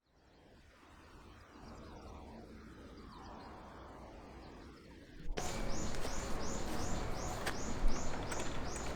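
Faint outdoor ambience with a few bird calls. About five seconds in it cuts abruptly to louder ambience with a high chirp repeating about three times a second.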